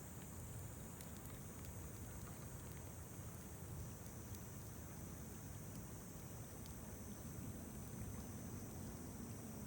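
Wood campfire crackling faintly, with scattered small pops over a steady low rumble and a steady high-pitched hiss.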